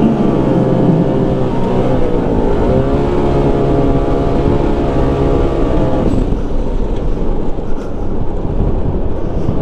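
Turbocharged twin-cylinder engine of a 2020 Polaris RZR Pro XP, fitted with a catless sport muffler, running hard under throttle on snow with no traction. Its pitch dips about two seconds in and climbs again. After about six seconds the engine tone gives way to a rougher rushing noise.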